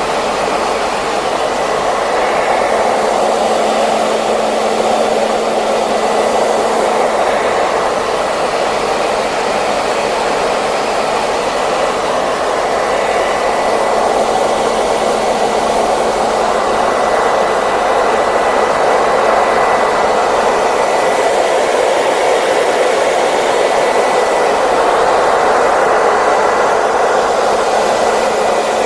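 Hair dryer running steadily: an even airy rush with a faint steady whine.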